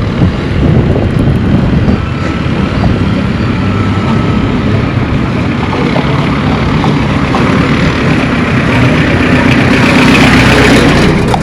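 Street traffic: a motor vehicle's engine running close by, with a rushing hiss that swells near the end.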